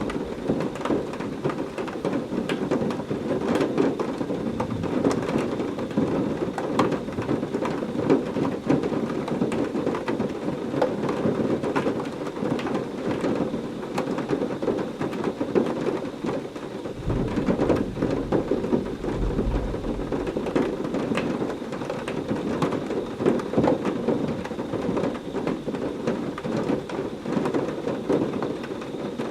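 Heavy rain falling steadily, with many close drop impacts. A low thunder rumble comes in about seventeen seconds in and lasts a few seconds.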